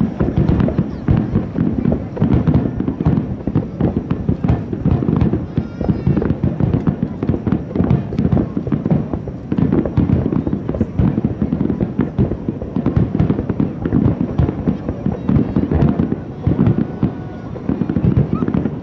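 Aerial fireworks shells bursting in quick, overlapping succession: a continuous barrage of booms and crackles.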